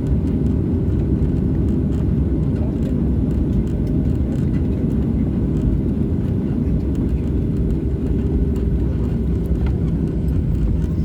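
Steady low rumble of an airliner's jet engines, holding an even level with no build-up or fall-off.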